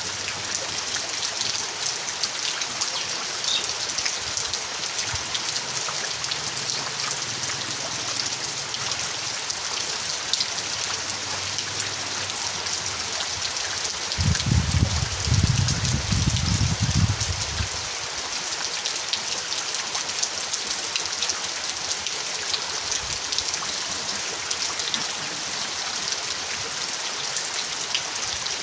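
Steady rain falling, a dense hiss with scattered drop ticks. About halfway through, a low rumble swells for a few seconds and fades.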